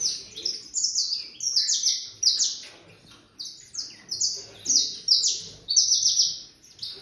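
Eight-month-old saffron finch (canário-da-terra) singing: a run of short, high chirped phrases with brief pauses between them.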